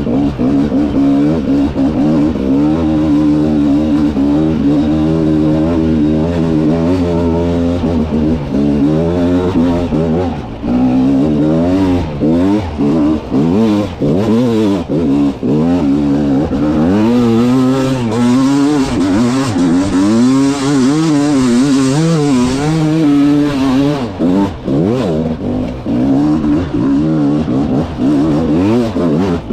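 300cc two-stroke dirt bike engine revving up and down without pause as the throttle is opened and closed, the pitch climbing and dropping every second or two.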